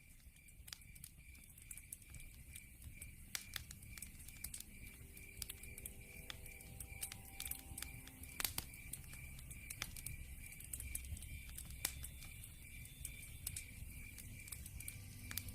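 Wood fire crackling, with irregular sharp pops over a low rumble of burning logs. The loudest pop comes about halfway through. A high, steady, pulsing chirp of a night insect runs under it, like a cricket.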